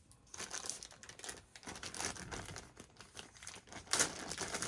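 Rustling and light clicks of parts being handled on a workbench, with a sharper click about four seconds in.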